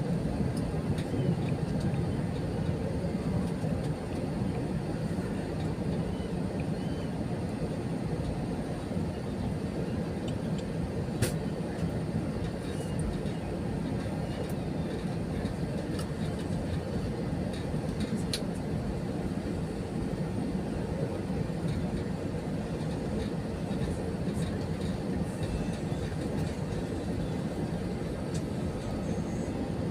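Steady cabin rumble inside an Airbus A320 taxiing before takeoff: engines at idle and the wheels rolling on the taxiway. A sharp click about eleven seconds in, and a fainter one later.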